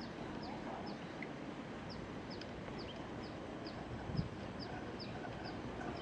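A bird calling a steady series of short, high, falling chirps, about two a second, over a steady background hiss. A single low thump comes about four seconds in.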